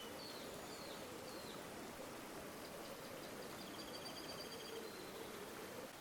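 A river flowing steadily, with small birds calling over it: a few short chirps in the first second and a half, then a rapid high trill from about two and a half to five seconds in.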